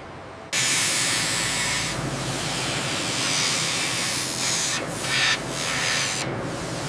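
A loud, steady hiss, like steam or air under pressure venting, starts suddenly about half a second in. It swells briefly about five seconds in and softens near the end.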